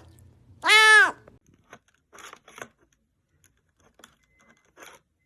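A cat meows once, loud, about a second in, its pitch rising then falling. Faint scattered crunching and clicking sounds follow.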